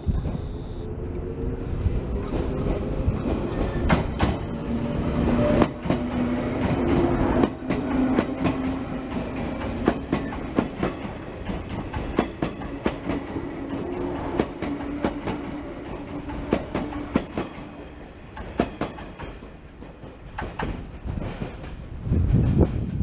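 115-series electric train running through the station, its wheels clicking over the rail joints over a steady hum that fades after about two-thirds of the way through. A low rush comes in near the end.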